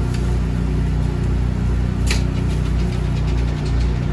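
An engine running steadily with an even low hum. A short sharp click about two seconds in, followed by a few faint light ticks.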